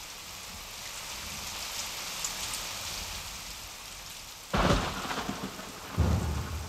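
A steady soft hiss like rain, then a sudden loud rumbling crash about four and a half seconds in and another about a second and a half later.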